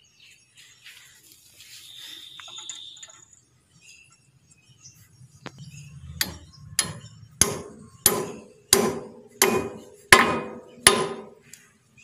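A hammer driving a steel cotter bolt into the kingpin on a JCB front axle: eight sharp, ringing metal-on-metal strikes at an even pace, starting about halfway in, after a few faint clinks of parts being handled.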